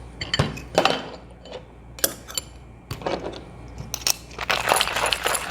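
Whole coffee beans clicking and clattering as they go into a Porlex hand coffee grinder and it is put together, a few scattered clicks. About four seconds in, a dense crunching rattle starts as the grinder begins to crush the beans.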